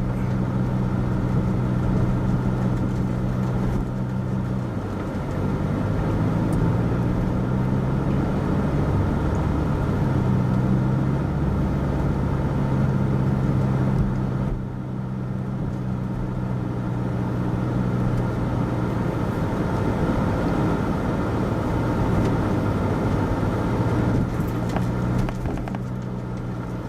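Car engine running steadily with road noise, heard from inside the cabin while driving slowly; the engine's hum shifts in pitch about five seconds in and again around ten seconds in.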